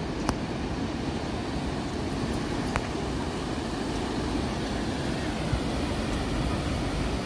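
A steady low rumbling noise with no clear pitch, and two faint clicks, one just after the start and one near three seconds in.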